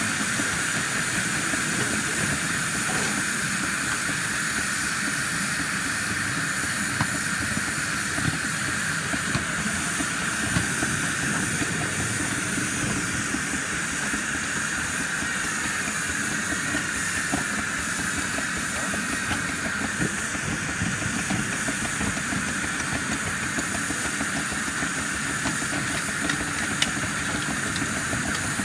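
Live-steam 7¼-inch gauge model of a Baldwin C-19 locomotive hissing steam steadily, over a low rumble, with a few light clicks.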